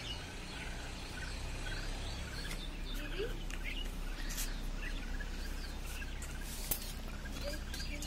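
Small birds chirping with many short, repeated calls, with a couple of sharp clicks in between.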